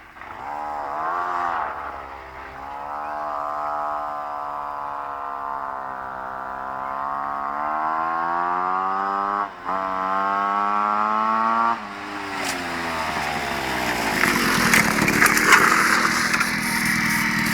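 Single-cylinder two-stroke Piaggio moped engine with a 75 cc Pinasco kit and Polini SP exhaust, revving up under full-throttle acceleration, its pitch climbing steadily, with a brief cut near the middle, then falling away about twelve seconds in and turning rougher and noisier near the end. The rider afterwards judges the carburetion a bit off ("un po' scarburato").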